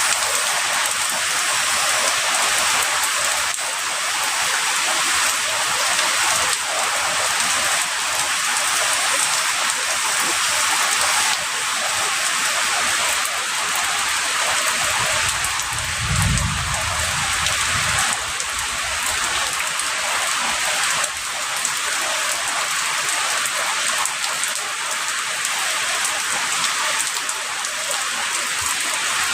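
Heavy rain falling steadily, a dense even hiss of drops on surfaces. About halfway through, a low rumble of distant thunder lasts a few seconds.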